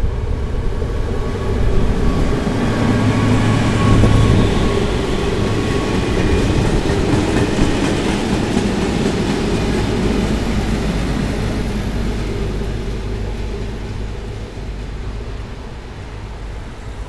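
A V100 diesel locomotive passes close by, its engine loudest in the first few seconds. A SPENO rail grinder train's wagons follow, rolling past on the rails with a steady rumble that fades over the last few seconds as the train moves away.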